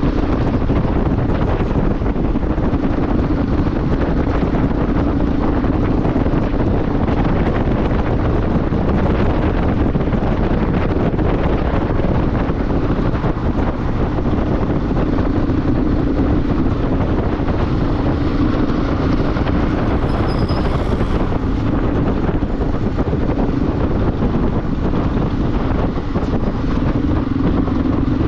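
Motorcycle engine running steadily under way, its note rising and easing slightly, under heavy wind noise buffeting the microphone.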